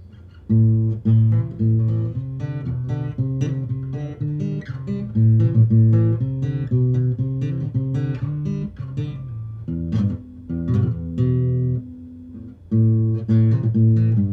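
Acoustic guitar being picked, with single notes and chords over a moving bass line, starting about half a second in. The phrase pauses briefly near the end and then picks up again.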